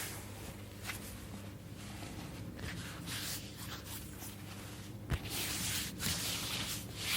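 Close-up soft rubbing and rustling of hands moving over oiled skin and fabric, in slow swishes. A sharp click about five seconds in, after which the rubbing is louder.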